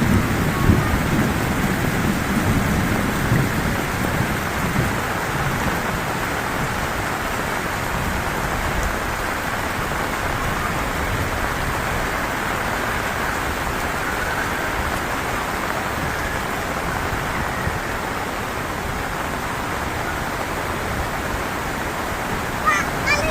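Heavy rain falling steadily, with a low rumble of thunder that fades away over the first few seconds.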